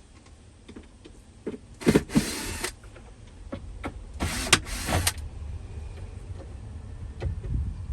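Cordless power drill run in two short bursts, about two seconds and four and a half seconds in, as screws are driven out of a van's kitchen units.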